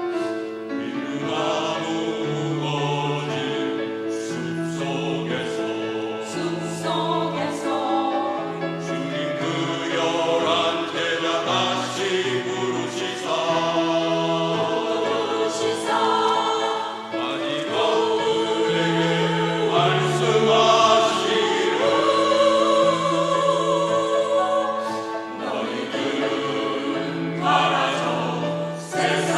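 Church choir singing a sacred anthem, sustained vocal chords over a bass line.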